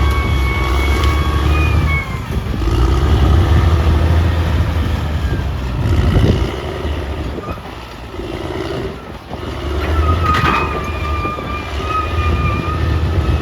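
Caterpillar D6R XL crawler bulldozer's diesel engine running under working load, a deep rumble that rises and falls as the load changes, easing off briefly about two seconds in and again for a moment past the middle.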